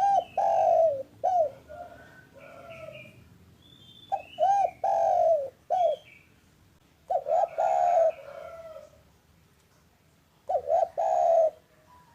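Spotted dove cooing: four phrases, each of a few short coos ending in a longer falling coo, repeated about every three seconds. Faint higher chirps of small birds come between the phrases.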